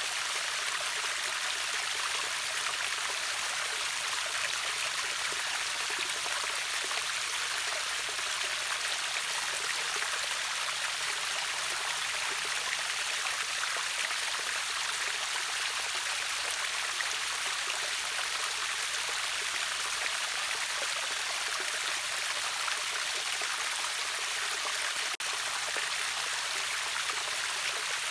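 Steady rushing water of a river waterfall, an even hiss weighted toward the high end, with a split-second dip in level near the end.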